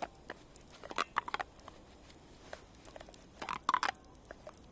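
Clusters of short clicks and scrapes, about a second in and again around three and a half seconds: a thermos cap being twisted and failing to screw on, the threads not catching.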